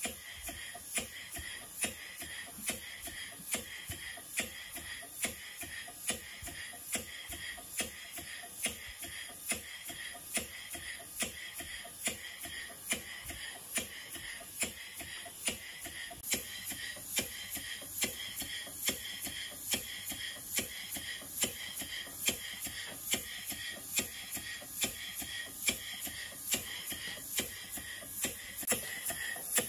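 Stevens Model Dockyard model steam engine running slowly with a regular sharp knock, a little under two a second, over a steady hiss. The owner puts the knock down to a slack big-end bearing and suspects the piston is also hitting the lower cylinder end cover.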